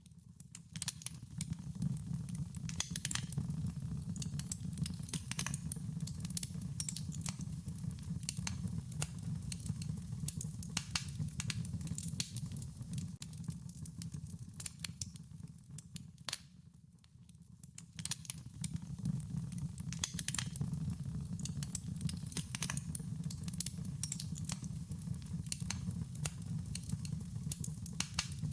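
A wood fire crackling, with irregular sharp pops and snaps over a steady low rumble of the flames; it dies down briefly a little past halfway, then picks up again.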